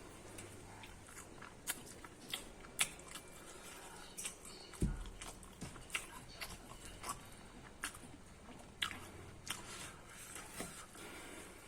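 Someone eating corn close to the microphone: bites and chewing with scattered sharp, crunchy clicks, and one low thump about five seconds in.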